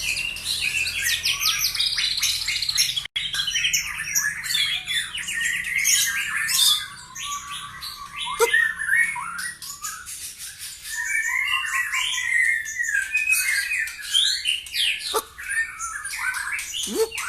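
White-rumped shama (murai batu) singing a fast, varied, unbroken string of chirps and trills, the song filled with phrases copied from other birds (isian). Quick downward-sweeping notes cut through once about halfway and twice near the end.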